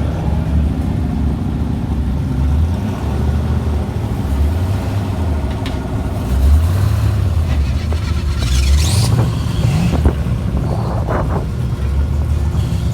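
Big-engined street race cars rumbling at low revs, the deep engine note wavering unevenly. There is a short rise in revs about nine to ten seconds in.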